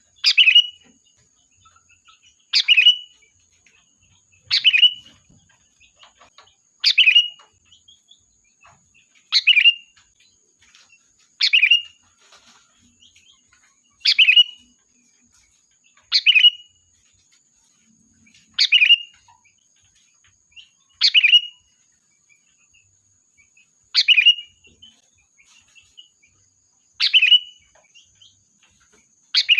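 Sooty-headed bulbul (kutilang) giving a short, loud call, repeated every two to three seconds. It is a lively lure call used to draw in a flock of other bulbuls.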